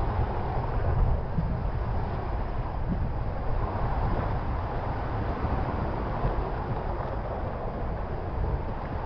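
Rushing water and the rider's body sliding through a waterslide tube, heard from a camera worn by the rider as a steady, muffled rumble.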